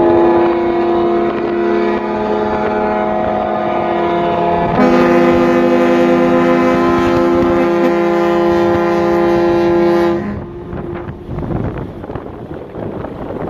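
A ship's horn sounds one long steady blast of several pitches at once, lasting about ten seconds. About halfway through, a further tone joins. The horn cuts off a few seconds before the end, leaving wind and water noise.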